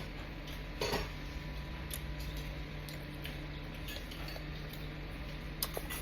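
Spoon clinking and scraping against a dish during a meal, with a louder clatter about a second in and a sharp click near the end, over a steady low hum.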